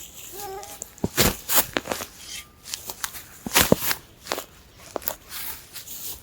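Irregular snapping and crunching of dry twigs and forest litter, a dozen or so sharp cracks at uneven intervals.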